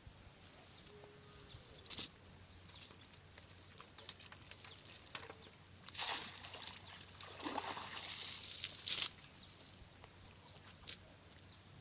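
Water splashing and sloshing in irregular bursts, with a few sharp slaps. The longest, loudest stretch of splashing comes past the middle and stops suddenly.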